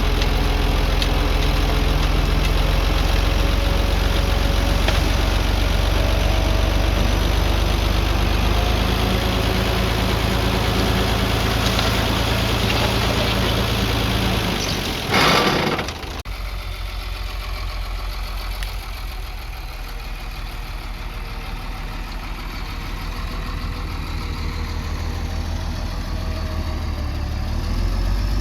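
Engine of earthmoving machinery running steadily, with a loud burst of noise lasting about a second halfway through, after which the engine is quieter.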